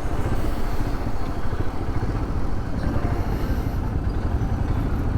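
Royal Enfield Himalayan's single-cylinder engine running steadily at cruising speed, heard from the rider's helmet with a dense, low rush of wind and road noise.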